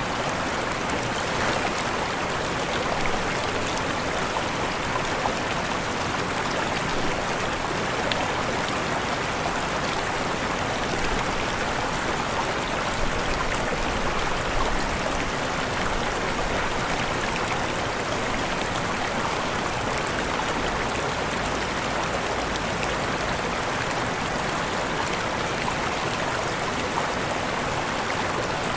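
Waterfall: falling water rushing and splashing in a steady, unbroken rush.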